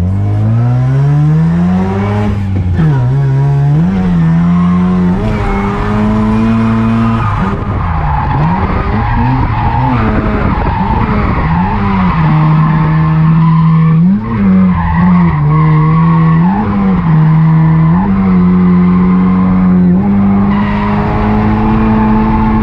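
Drift car engine revving hard, its pitch climbing and dropping again and again as the throttle is worked, with tyres squealing and skidding underneath.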